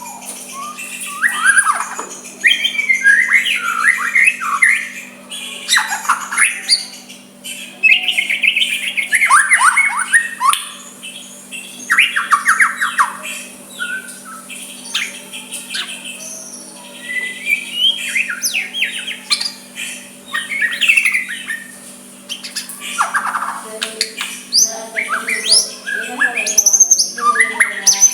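White-rumped shama singing a continuous, varied song of quick sweeping notes and rapid note clusters, phrase after phrase with brief pauses between.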